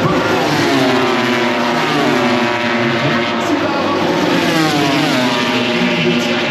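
MotoGP race motorcycles' engines running at high revs on track, several at once, their pitch repeatedly rising and falling as they accelerate and shift.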